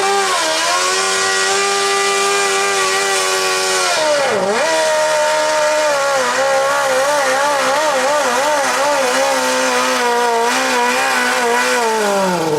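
Modified lawn tractor's engine running at high revs under load while pulling the sled. The pitch holds steady, dips sharply about four seconds in and recovers, then wavers up and down as the load builds. Near the end the revs fall away as the pull runs out.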